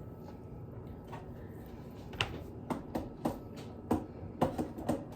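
Eating noises close to the microphone. It is quiet at first, then from about two seconds in comes a run of about a dozen short, sharp clicks and smacks.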